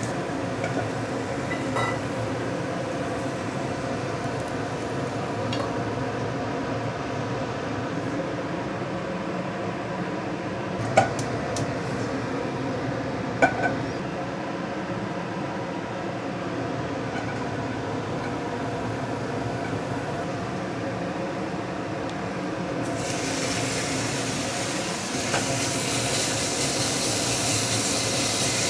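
Food frying in a pan with a steady sizzle, two sharp clinks of a utensil against the pan in the middle, and the sizzle turning brighter and louder with a hiss near the end.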